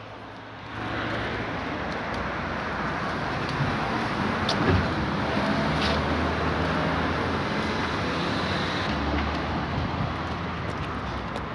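Street traffic: a motor vehicle's engine running close by, heard as a steady rush with a low hum that begins about half a second in.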